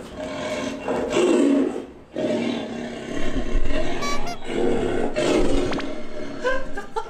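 Recorded roars played as a scary sound effect through a Bluetooth karaoke microphone's speaker, several loud roars in a row, each lasting about a second.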